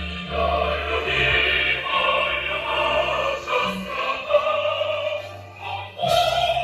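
Choral music with orchestra: a choir singing sustained chords over held low bass notes.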